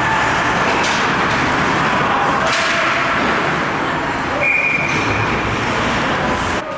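Arena crowd noise with indistinct voices and shouts, a dense steady din, with a brief high tone about four and a half seconds in.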